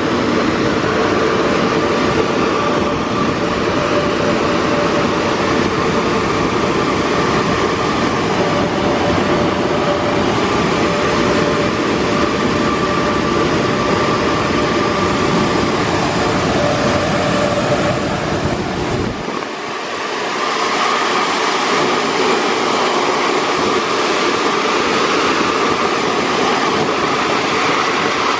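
Oasis Monsoon automatic car wash running: a steady loud whoosh with a fan-like whine. About two-thirds of the way through, the deep rumble cuts out suddenly and a lighter steady whoosh with a higher whine carries on.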